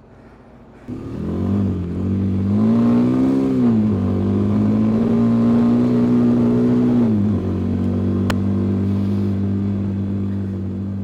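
Dual-sport motorcycle engine coming in suddenly about a second in, revving up and holding higher revs, then dropping back to a steady lower idle about seven seconds in.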